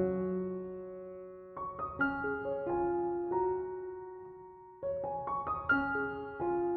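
Background piano music: short phrases of notes that each ring and fade away, a new phrase beginning about a second and a half in and again near five seconds.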